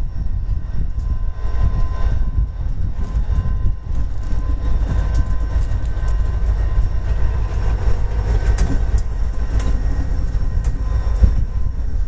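Freight train rolling past: boxcars and a covered hopper going by with a heavy, steady rumble and the repeated clicks of wheels over the rail joints.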